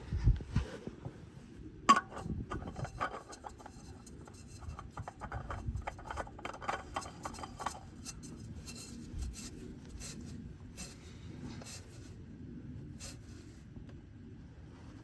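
Hand work on tools and car parts: a dull knock, then a sharp metallic click about two seconds in, followed by a run of small clicks, taps and rubbing that thins out over the second half.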